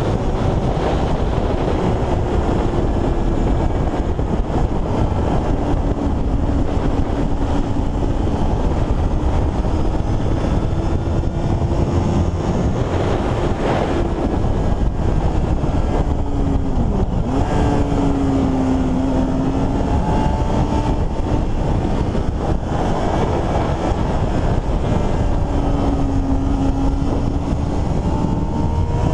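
Road-racing superbike engines running under a heavy rumble of wind noise on the microphone, their pitch sliding up and down as the revs change.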